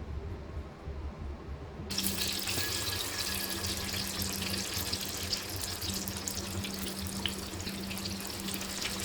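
Chicken frying in hot oil: a dense sizzling and crackling that starts abruptly about two seconds in and then runs steadily, over a low steady hum.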